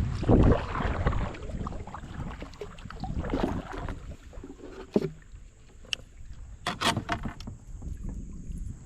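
Kayak paddle strokes dipping and splashing in river water, with wind rumble on the microphone in the first second or so. A few sharp knocks come about seven seconds in.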